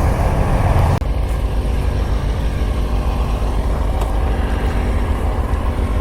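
Kawasaki Ninja sportbike engine idling at a standstill, a steady low rumble through a helmet microphone, with a brief sharp drop in level about a second in.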